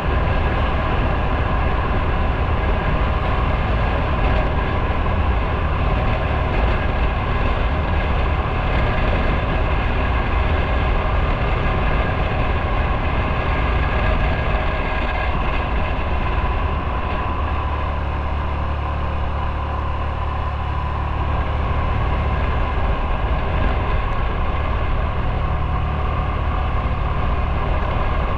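Motorcycle engine running while under way, with heavy wind rumble on the microphone. The sound eases slightly for a few seconds in the second half, then picks up again.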